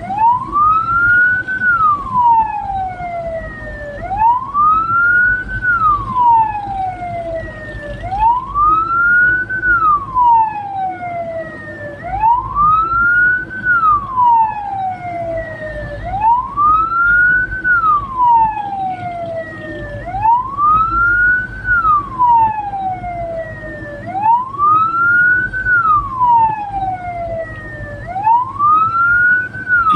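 Hearse's electronic siren wailing: each cycle sweeps quickly up and then slides slowly down, repeating about every four seconds. A low vehicle rumble runs underneath.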